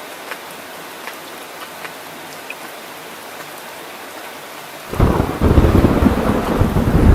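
Steady rain falling, with scattered drops ticking. About five seconds in, a loud rumble of thunder sets in suddenly and keeps rolling.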